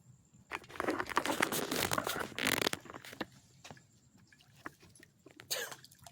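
Splashing at the water's surface as a small tarpon strikes the lure and thrashes: a couple of seconds of irregular splashing, then a shorter splash near the end.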